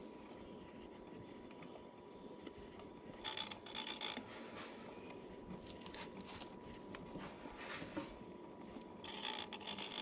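Hand work on metal parts: two short spells of scraping and rubbing, about three seconds in and near the end, with a couple of sharp clicks between them.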